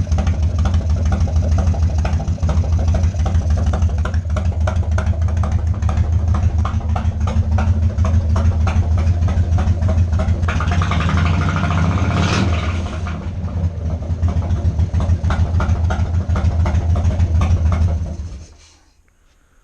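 A 1995 Harley-Davidson Wide Glide's air-cooled Evolution V-twin idling through Hooker header pipes, a steady low rumble with a brief rise in higher-pitched noise about eleven seconds in. The engine cuts off about eighteen seconds in. It is running again after sitting for nine years, which the mechanic finds really promising.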